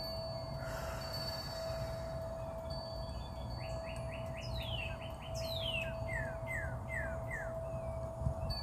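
Birds calling: several short falling chirps and a quick trill of rapid notes, over a steady hum and a low rumble.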